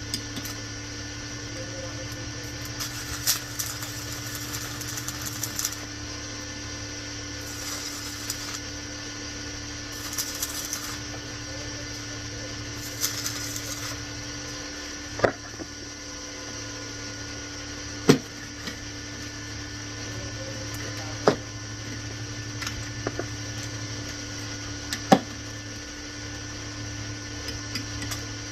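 Stick (MMA) arc welding with an inverter welder: a steady crackling hiss over a low electrical hum, with a few sharp pops in the second half.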